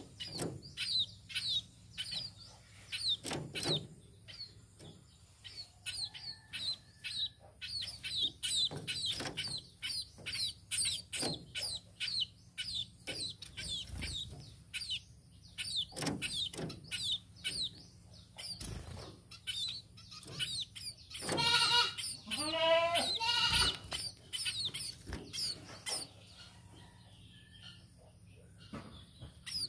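A tame burung pipit (small sparrow-like finch) chirping repeatedly in short, high chirps, two or three a second. About three-quarters of the way through, a louder, lower animal call with a drawn-out, wavering voice lasts a couple of seconds.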